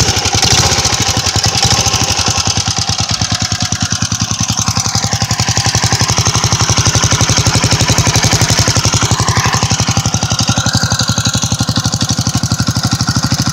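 Single-cylinder 5 hp Tecumseh four-stroke engine on a homemade chopper motorbike, running steadily with a fast, even firing beat.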